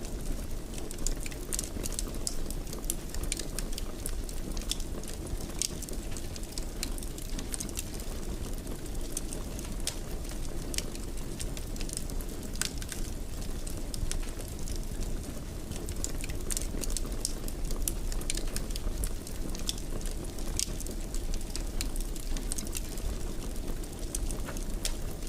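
Wood fire in a fireplace crackling steadily, with frequent small irregular pops and snaps over a low, even rumble of the flames.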